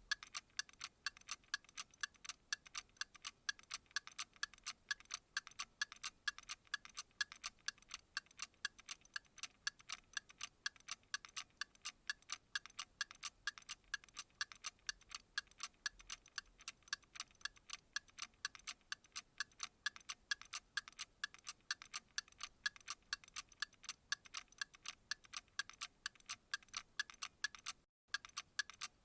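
Clock ticking in a fast, even rhythm of crisp, high ticks, with a brief break near the end.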